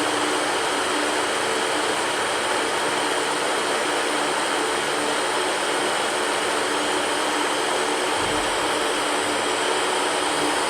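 Electric fan running steadily: an even rushing hiss of moving air with a faint steady hum underneath.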